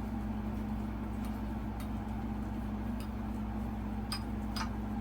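About five light, sharp clicks at uneven intervals from ceiling-fan blade hardware being handled during blade installation, over a steady low hum.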